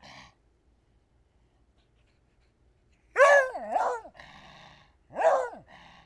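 Beagle barking: two barks in quick succession about three seconds in, and a third about five seconds in, each rising and then falling in pitch.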